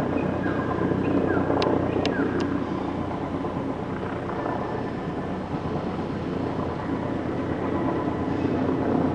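Military helicopter running steadily, its rotor and turbine noise loud and even, with three short clicks about two seconds in.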